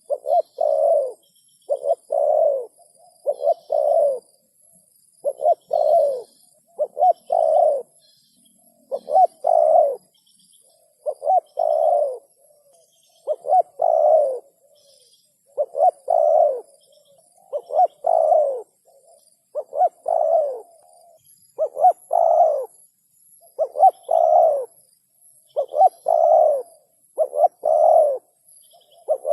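Spotted dove (tekukur) cooing over and over, in short two- and three-note phrases about every two seconds. It is a clear lure call.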